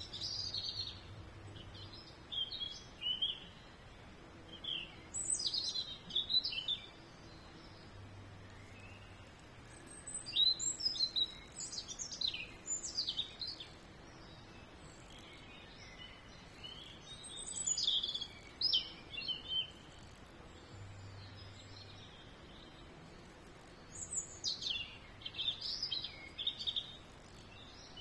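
Songbird singing outdoors: bouts of quick, high chirps and twitters, each a second or two long and repeated every few seconds over a faint background hiss.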